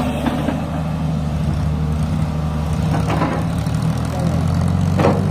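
Tractor's diesel engine running at a steady speed.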